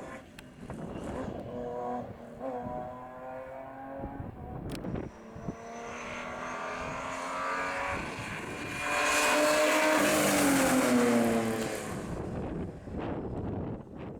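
A rally car approaching at full stage speed, its engine revving up and dropping with each gear change. It is loudest a little past the middle, where the pitch falls as the car passes, and then it fades away.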